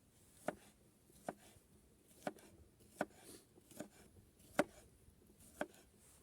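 A knife chopping on a cutting board, seven unhurried strokes about a second apart.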